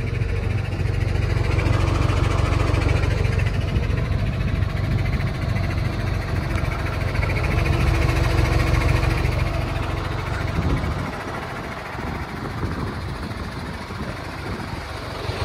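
MAN TGL 8.180 truck's four-cylinder diesel engine running at idle, a steady low rumble that weakens about ten seconds in.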